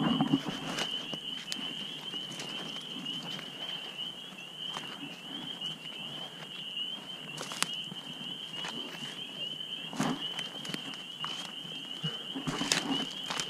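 Footsteps crunching over the forest floor, with scattered clicks and crackles of twigs and brush, over a steady high-pitched trill of a night chorus.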